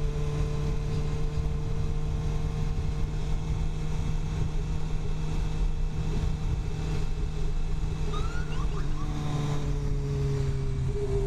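2015 Suzuki GSX-R 750 inline-four with an Akrapovic slip-on exhaust running at a steady cruise under the rider, over a rush of wind noise. The engine note eases down a little near the end.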